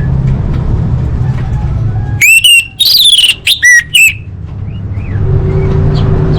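Orange-headed thrush song: a quick run of loud, clear whistled notes about two seconds in, with a few faint notes later, over a steady low hum.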